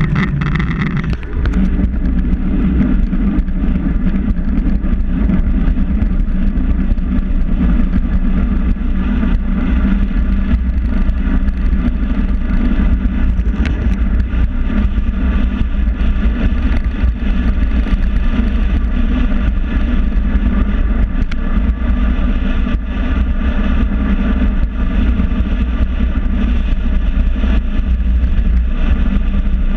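Steady, loud rumble of wind and road noise while riding a bike, unbroken throughout.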